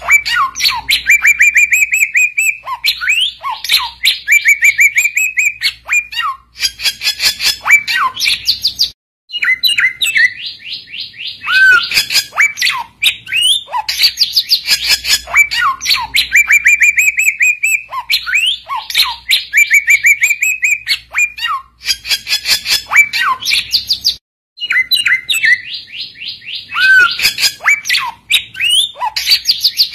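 A bird known in Indonesia as samyong calling loudly in a rapid, chattering song of fast trills and sharp chirps. The same phrase sequence comes round about every 15 seconds, with a short break twice, as in a looped lure recording.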